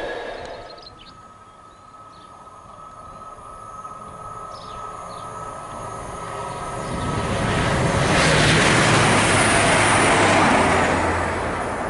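Rail noise from a container freight train fades away, then a passenger train approaches and passes at speed. Its rush builds steadily to a loud peak about eight to ten seconds in and eases near the end.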